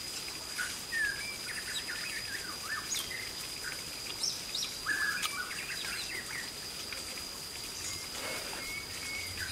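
Birds chirping in short, scattered calls over a steady high-pitched whine.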